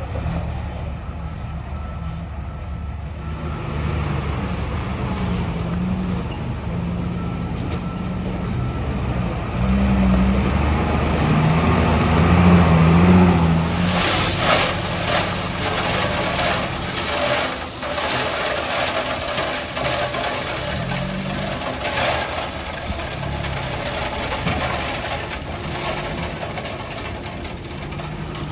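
Heavy diesel construction machinery working under load, its engine rising about a third of the way in. From about halfway, a dense rattling and scraping of gravel and metal joins it.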